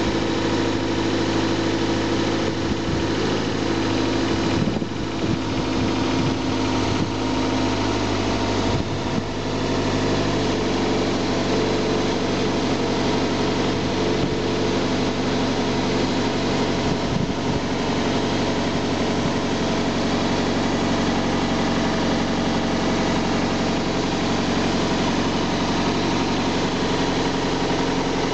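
Toyota MR2's 1.8-litre VVT-i 1ZZ-FE inline four-cylinder engine running at a steady idle.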